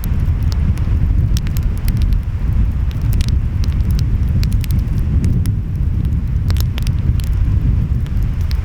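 Wood fire crackling, with frequent sharp pops, over a steady low rumble of surf and wind.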